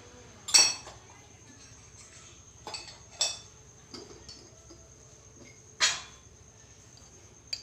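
Metal spoon clinking against a mixing bowl while spice powder is measured in: several separate clinks with pauses between, the loudest about half a second in and another near six seconds.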